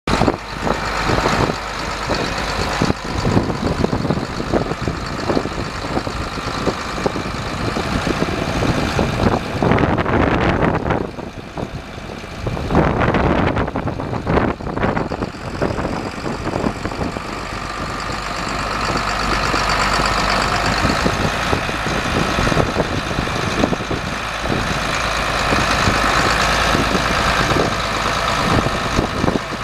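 1983 John Deere 4650 tractor's six-cylinder turbo diesel engine running steadily, with a brief drop in level about ten seconds in.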